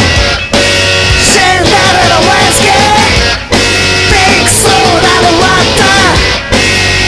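Loud rock song from a full band, with a wavering melody line over the guitars. The sound drops out for a moment about every three seconds.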